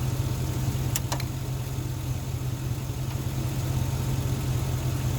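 A car engine idling steadily, with two short sharp clicks about a second in.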